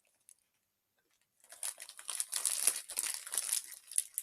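Plastic snack wrapper crinkling and rustling as it is handled and opened, in quick irregular crackles that start about a second and a half in.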